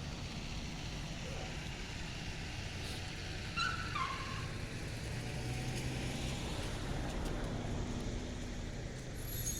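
Steady low rumble of a motor vehicle engine running. About three and a half seconds in, a brief high cry falls in pitch.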